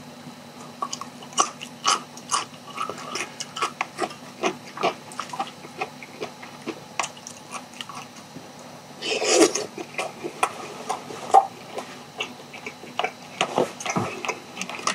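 Close-miked chewing of sauced charcoal-grilled chicken: wet mouth clicks and smacks several times a second, with a longer, louder noisy sound about nine seconds in.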